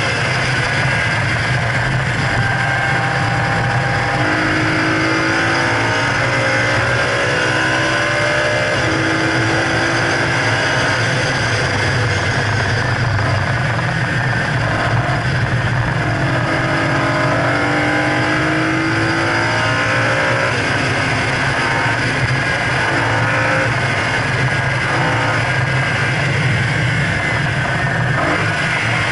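2011 BMW E92 M3's V8 engine under hard driving on a race track, its pitch climbing again and again as the revs rise, then dropping back. Steady road and wind noise runs underneath.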